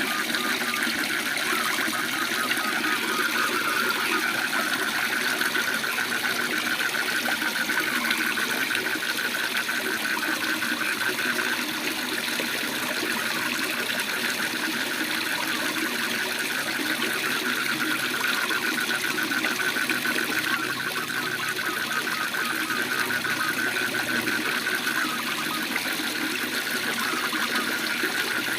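Steady rush of a waterfall, with frogs calling in a continuous fast pulsing trill held at one pitch above it.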